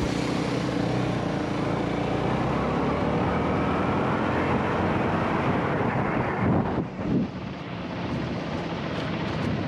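Single-cylinder dirt bike engine running under way with wind buffeting the helmet-mounted camera's microphone; the engine note eases and the rush of noise drops off about seven seconds in as the throttle is rolled back, then builds again.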